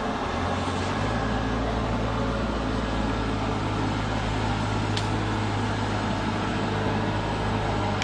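Sawdust flash dryer plant running: a steady machine drone with a low hum underneath, and one brief tick about five seconds in.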